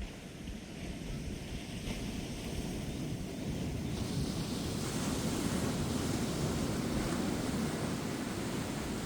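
Ocean waves breaking and washing up a beach, the surf swelling louder about four seconds in, with some wind on the microphone.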